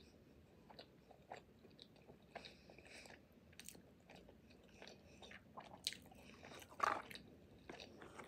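Close-up mouth sounds of a person chewing a bite of pupusa with crema, sweet plantain and refried beans: faint, scattered wet smacks and clicks, with one louder smack about seven seconds in.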